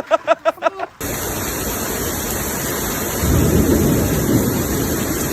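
Storm wind and driving rain blasting over the microphone in a steady dense rush that cuts in abruptly. It swells with a heavier low-pitched gust a little past the middle. Before the cut comes about a second of rapid pulsing voice sounds.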